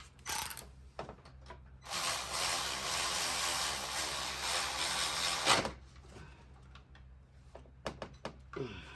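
A power tool runs steadily for about three and a half seconds, after a brief burst of the same noise near the start, while a spark plug and ignition coil are being replaced.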